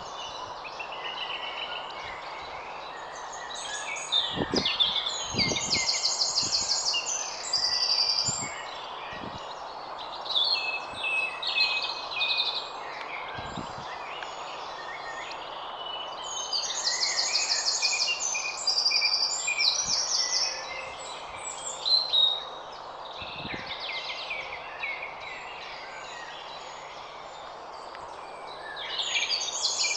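Garden birds singing and chirping over a steady hiss from the trail camera's microphone. One song ends in a fast, high trill and comes back about every twelve seconds, with scattered shorter chirps between. There are a few soft low knocks.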